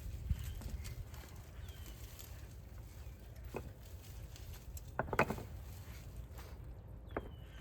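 Outdoor ambience: a steady low rumble, a few short taps, the loudest cluster about five seconds in, and a couple of faint short bird chirps.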